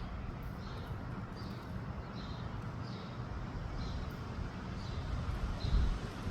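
Wind rumbling and buffeting on the microphone, with a faint high-pitched chirp repeating about twice a second.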